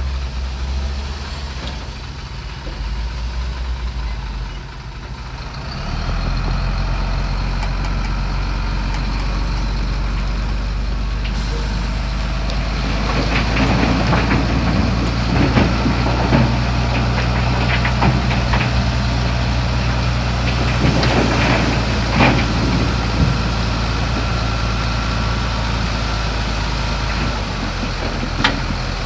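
Heavy diesel earthmoving machinery running steadily, its engine drone growing louder about six seconds in. Repeated clanks and rattles of metal come through the middle stretch.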